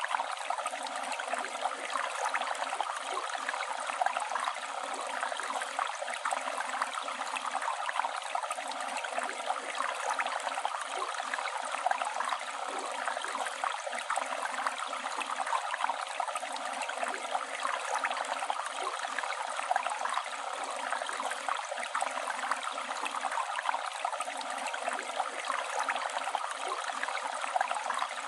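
Flowing river water rushing steadily in an even, continuous wash with fine splashing texture and little low rumble.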